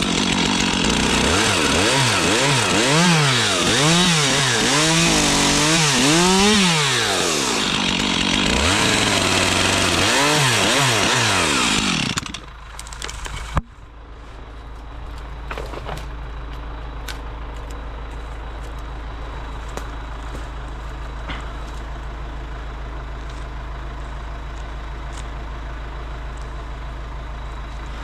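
Stihl chainsaw running at full throttle, its pitch dipping and recovering again and again as it bogs down in the cut, for about twelve seconds. It then stops, and a steady low engine idle takes over, with occasional faint clicks.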